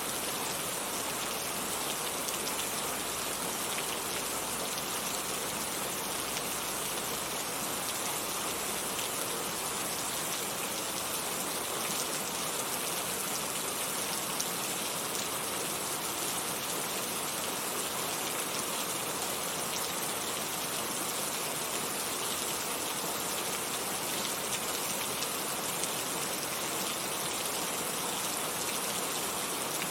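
Heavy rain falling steadily, an even hiss of drops on surfaces with fine scattered drop ticks and no let-up.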